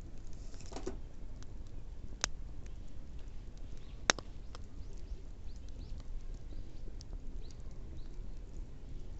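Wood bonfire crackling, with scattered light ticks over a low steady rumble and two sharp pops, about two seconds in and about four seconds in, the second the louder.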